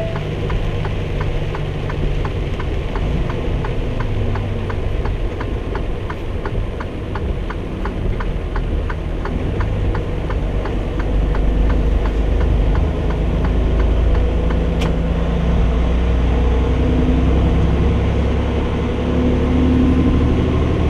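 Semi truck's diesel engine running, heard from inside the cab, growing louder about eleven seconds in as it pulls harder. A steady faint ticking, about two or three a second, runs through the first part.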